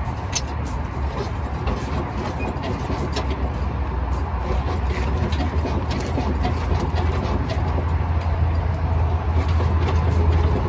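A vehicle engine running steadily, with scattered clicks and ticks over it.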